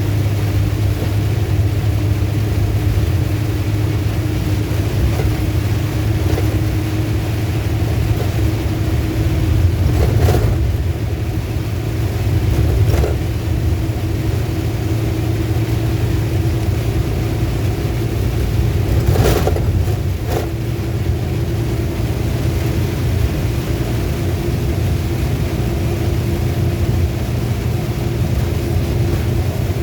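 A car driving in heavy rain: a steady engine and road drone under the even hiss of rain, with a few short knocks here and there.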